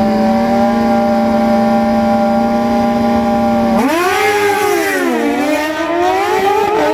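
Two four-cylinder sport bikes, a Suzuki GSX-R1000 and a Kawasaki ZX-10R, held at steady revs on the drag-strip start line. About four seconds in they launch: the engine note climbs sharply, drops at an upshift and climbs again.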